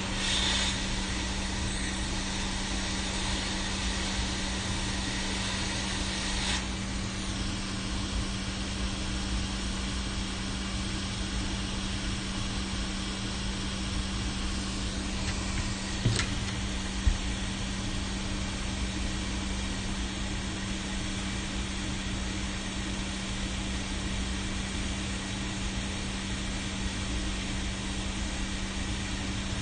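Hot air rework station blowing steadily with a constant hum, as a chip is taken off and put on a board. A brighter hiss stops suddenly about six seconds in, and two sharp clicks come near the middle.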